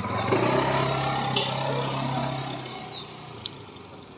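A motor vehicle passing on the road, its engine hum swelling and then fading away about three seconds in. Short high bird chirps come through near the end.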